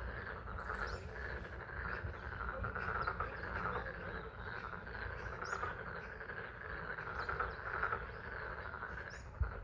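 Chorus of many frogs calling at a pond, a dense steady trilling that swells and fades, over a low rumble, with a few faint high bird chirps.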